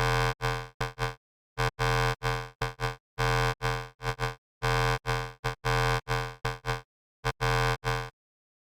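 Serum software synthesizer playing a buzzy wavetable patch made from an image, the same note struck repeatedly in an uneven rhythm. Some notes are held about half a second, others are short and die away. There is dead silence between notes.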